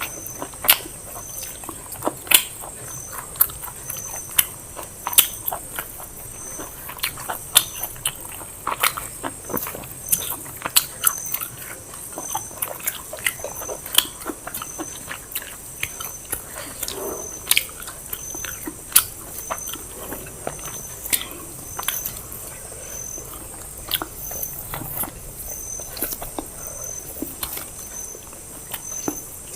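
People chewing and smacking their lips while eating biryani, with frequent short, sharp wet clicks from the mouth.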